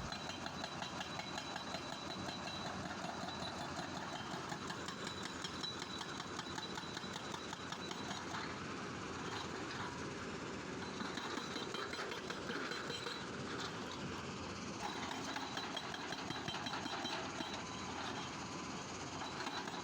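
Excavator-mounted hydraulic rock breaker hammering stone with rapid, steady blows.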